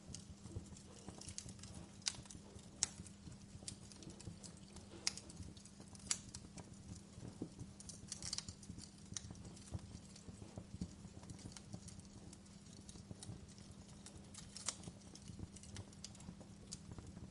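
Wood fire burning in a fireplace, crackling with irregular sharp snaps and pops of the burning logs over a low steady rumble.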